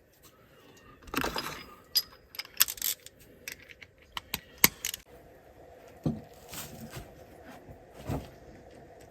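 Metal hand tools clinking and rattling as they are handled: sharp clicks and short jangles scattered irregularly, like sockets and spanners being sorted.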